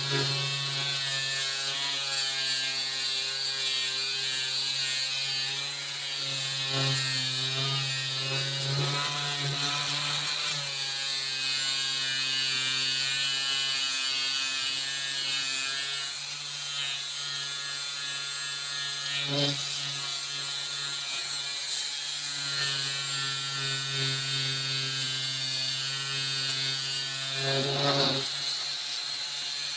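Bauer brushless cordless angle grinder running steadily under load against rusty steel, its motor holding a steady pitch. Brief scrapes and dips come about 10, 19 and 28 seconds in, as contact with the metal changes.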